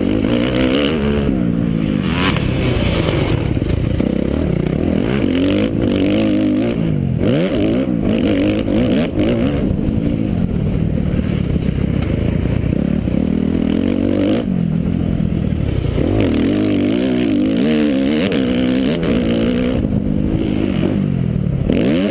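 Motocross bike engine revving up and down over and over as it is ridden, the pitch rising and falling with each burst of throttle.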